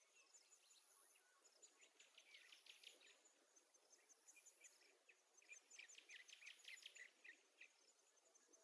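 Faint nature ambience: quick runs of high chirps, heaviest in two stretches, about two seconds in and again about five and a half to seven seconds in.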